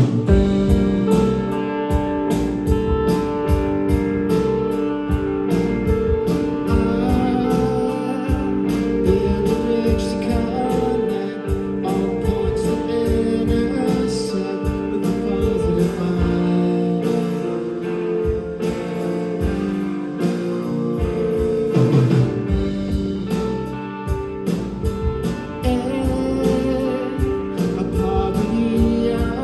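Live band playing music, with sustained chords over a steady drum beat.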